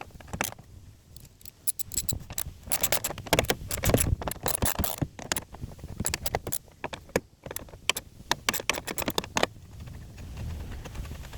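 Metal hand tools and screws clicking and rattling in irregular clusters as screws are taken out of the truck's plastic panels. It quietens near the end.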